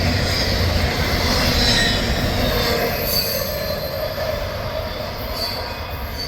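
Westbound intermodal freight train rolling through an elevated curve: a steady rumble of wheels on rail with high-pitched wheel squeal from the flanges in the curve, easing slightly near the end.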